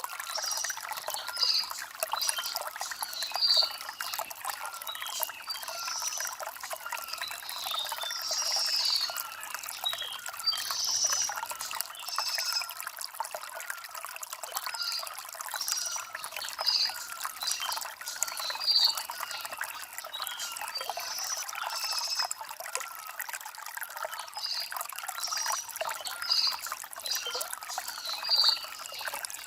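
Shallow stream trickling and splashing over river stones, with birds chirping repeatedly over the running water.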